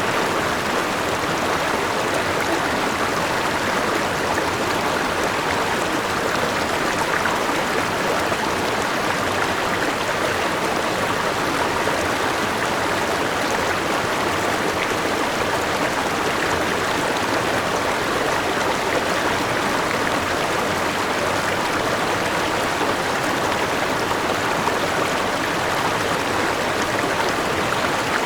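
River water rushing over rocks in a steady, even flow, with a small waterfall.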